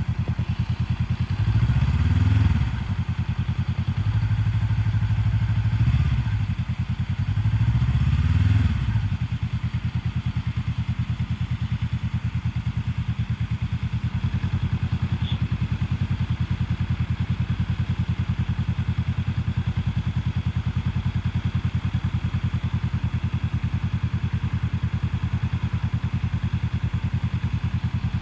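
Motorcycle engine idling with an even pulse, swelling louder three times in the first nine seconds with its pitch rising and falling, as it is given a little throttle and the clutch is eased out into the friction zone; after that it idles steadily.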